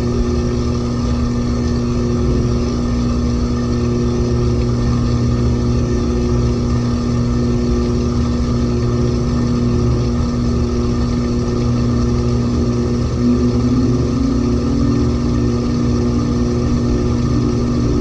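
LG 18 kg washing machine in its final high-speed spin with a heavy, overloaded drum: a steady motor whine of several fixed tones over a low rumble, wavering briefly a little past the middle.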